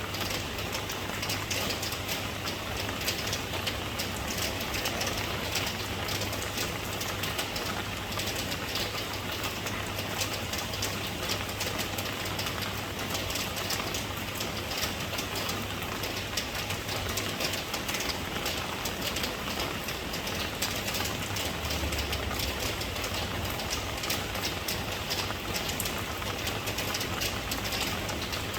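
Steady rain, a dense patter of drops, with a constant low hum underneath.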